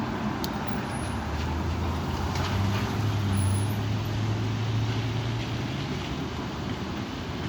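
A motor vehicle drives past with a low engine tone, swelling to its loudest about three and a half seconds in and fading away by about six seconds. Underneath is a steady rush of storm wind.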